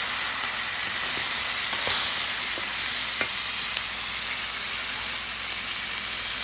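Pieces of squirrel meat and quartered Thai eggplant sizzling steadily in a hot pan while a wooden spatula stirs them, with a few light clicks from the spatula.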